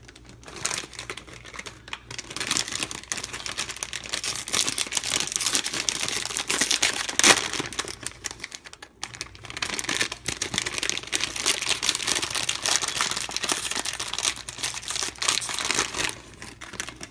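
Plastic blind-bag wrapper being crinkled and torn open by hand: a dense, continuous crackle, with a short pause about nine seconds in.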